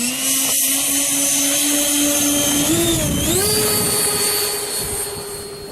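Electric motor of a radio-controlled model airplane running with a steady whine. The pitch dips briefly about three seconds in, then settles at a higher pitch as the throttle is raised.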